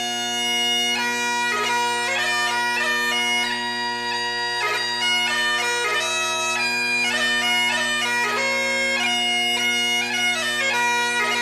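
Bagpipe music: steady drones held under a chanter melody of quickly changing notes.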